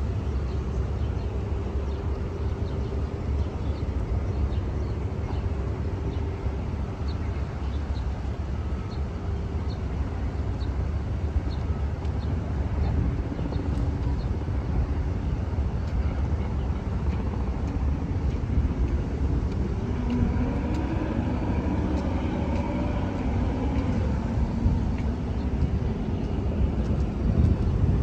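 Steady low rumble of city traffic with wind on the microphone. Faint, evenly spaced high ticks sound through the first half, and a louder pitched sound that shifts in pitch passes about two-thirds of the way through.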